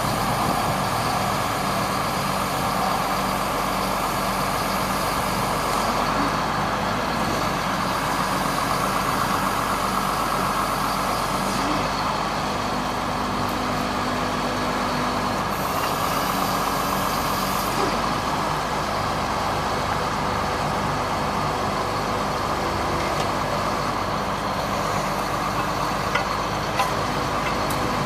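1999 GMC digger truck's engine running steadily, with a steady whine over it.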